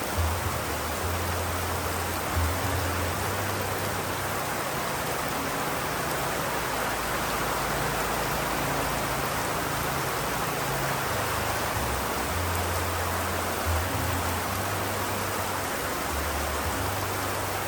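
Steady heavy rain, an even hiss with no single drops standing out. A low rumble comes and goes underneath.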